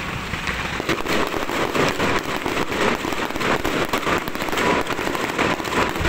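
Electronically fired fireworks going off in a dense, rapid barrage of cracks and pops, thickening about a second in.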